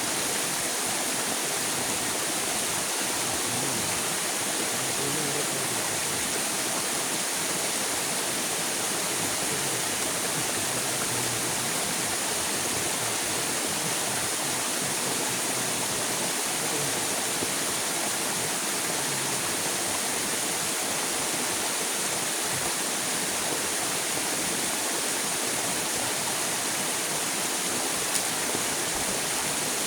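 River water rushing and flowing in a steady, unbroken wash.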